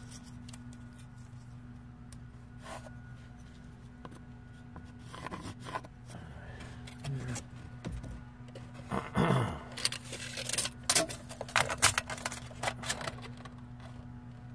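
Handling noises: scrapes, then a rapid run of sharp clicks and knocks from about nine to thirteen seconds in, over a steady low hum.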